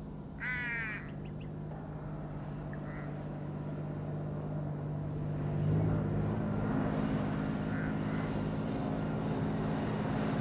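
Four-wheel-drive wagon's engine running as it drives over sandy dirt, getting louder and higher about six seconds in as it accelerates toward the camera. A short squawk sounds about half a second in.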